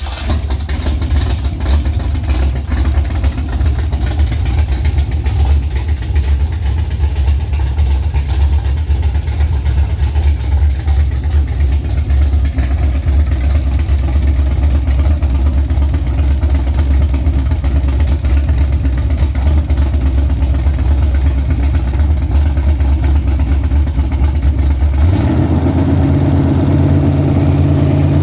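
Freshly built Chevy 355 small-block V8 with domed pistons running with a choppy, uneven idle. About 25 seconds in, the revs are raised and it settles into a smoother, higher-pitched steady run that climbs slightly near the end.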